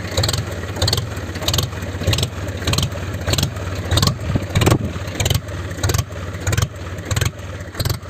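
Tractor engine running steadily, with a sharp knock about twice a second.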